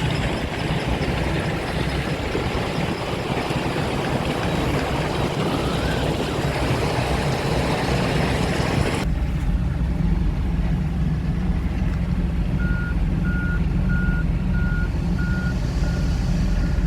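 Heavy truck engine running loud. About nine seconds in the sound changes suddenly to a low, steady engine rumble, and in the last few seconds a reversing alarm beeps at an even pace, about three beeps every two seconds.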